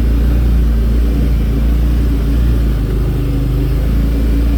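Engine of a vehicle running steadily as it is driven along a trail, a constant low hum.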